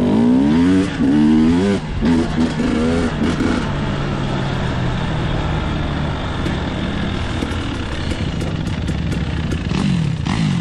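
Dirt bike engine revving, its pitch rising and falling several times in quick succession. After about three seconds it settles to a steadier, lower running note, then rises and falls again near the end.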